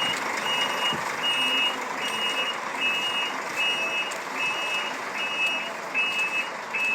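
Truck's reversing alarm beeping steadily, a little over one beep a second, over a background hiss.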